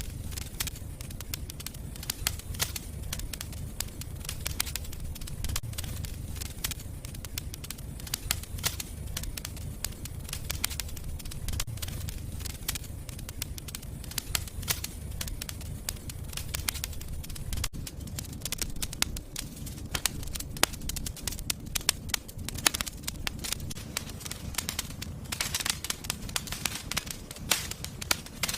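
Fireplace fire crackling, with frequent irregular sharp pops over a low steady rumble of the flames.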